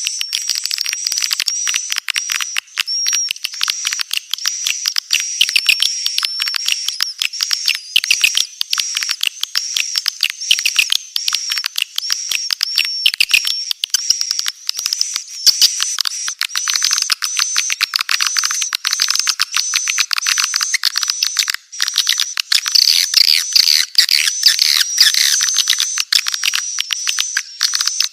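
Swiftlets twittering: a dense, continuous chatter of high, rapid chirps repeating about twice a second. This is a swiftlet call recording of the kind played to lure swiftlets into a nesting house.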